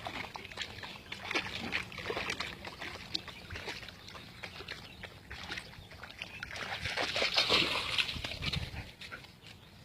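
Dogs moving about and making short, irregular noises, busiest and loudest about seven to eight and a half seconds in.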